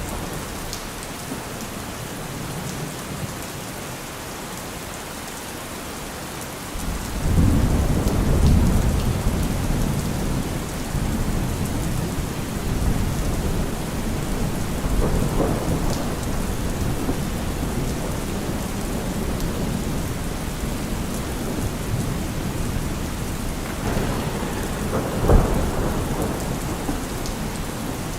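Steady rain with thunder: a deep rolling rumble swells in about a quarter of the way through and carries on under the rain, with a sharper, louder clap near the end.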